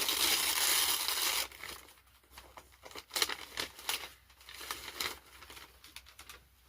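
Wrapping paper being torn and crumpled as a gift is unwrapped: a loud continuous tearing rustle for about the first second and a half, then scattered quieter crinkles.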